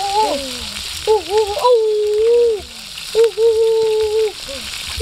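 Chicken quarters sizzling on a hot stone slab over a wood fire, a steady hiss. Over it runs a melody of long held notes that bend at their ends, louder than the sizzle, with shorter notes near the end.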